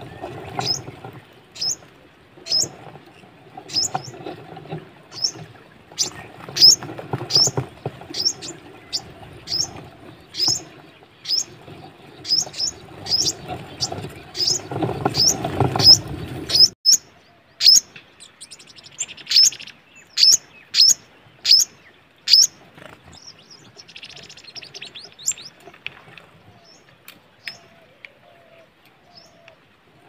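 A small bird chirping over and over in short, high chirps, about two a second, thinning out late on. A low background rumble underneath cuts off a little past halfway.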